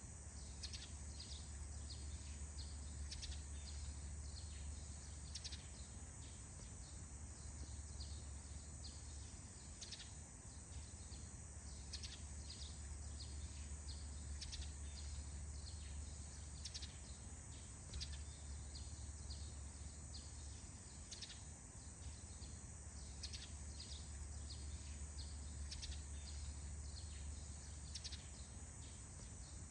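Faint morning forest ambience: a steady high insect drone with short bird chirps repeating irregularly throughout, over a low steady hum.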